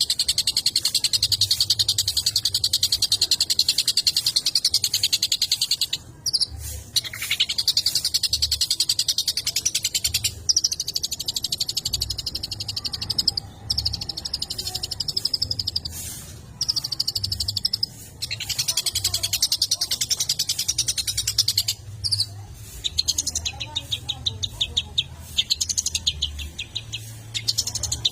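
Long-tailed shrike (cendet) singing a fast, buzzy, chattering trill in long runs broken by short pauses, turning choppier near the end: a masteran/lure recording played to excite a caged shrike.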